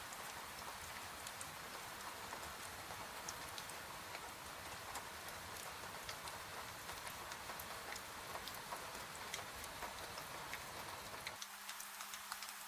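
Steady rain hiss with many small crackles and pops, as from a wood fire burning. Near the end the low rumble drops out and a faint steady hum comes in.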